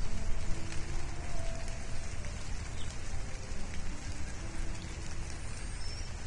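Steady hiss of rain falling on an outdoor nest camera's microphone, with a couple of faint, short, high bird chirps near the end.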